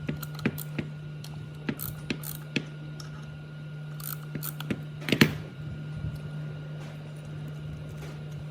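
Workshop handling of metal parts: irregular clicks and knocks, the loudest about five seconds in, over a steady low hum with a faint high whine.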